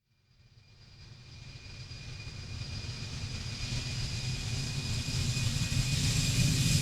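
A vehicle approaching: a low rumble and hiss swelling steadily out of silence, with a faint, steady high whine above it.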